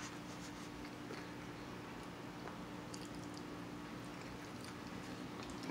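Quiet eating: faint chewing and a few light clicks of a plastic fork in a foam takeout box, over a steady low hum.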